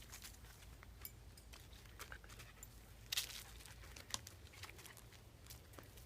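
Faint rustling and scattered crackles, with a short cluster of sharper clicks about three seconds in.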